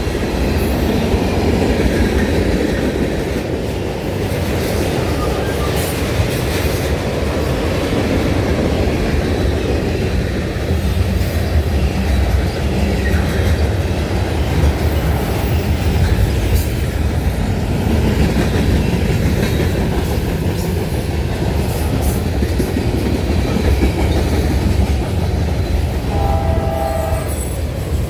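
A train rolling past with a steady low rumble and scattered clicks of wheels over rail joints. Near the end comes a short horn blast, about a second long.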